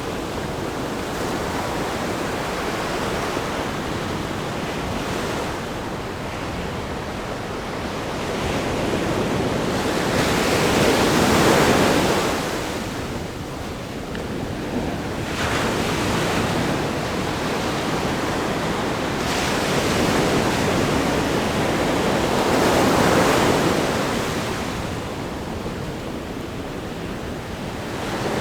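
Ocean waves breaking on a rock groin and washing up a sandy beach, a continuous surf rush that swells to two louder crashes, about 11 seconds in and again about 23 seconds in.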